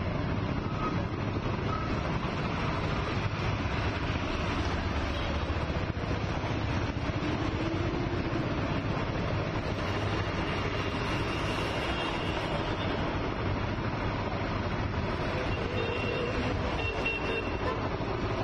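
Steady vehicle noise, a continuous rumble of passing traffic.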